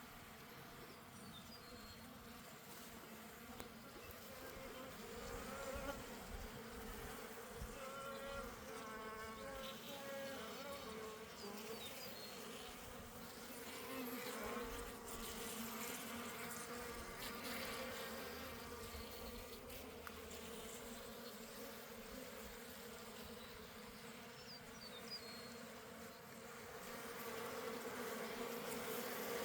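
Swarm of honeybees buzzing around an opened hive during a frame inspection: a steady, wavering hum.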